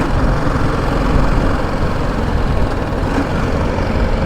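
BMW G 310 GS motorcycle's single-cylinder engine running steadily while riding, mixed with dense road and traffic noise.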